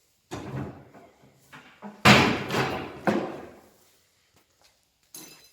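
Clatter and bangs of a folding boarding ladder being folded and stowed in a boat's glovebox compartment. There is a clatter near the start, then a loud bang about two seconds in that rings on briefly, and another knock a second later.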